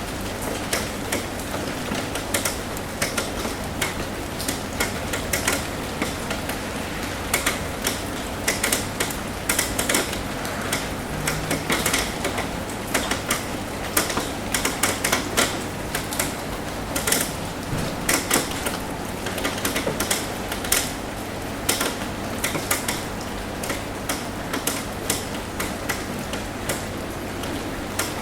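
Raindrops tapping on a roof in quick, irregular taps over a steady hiss of rain.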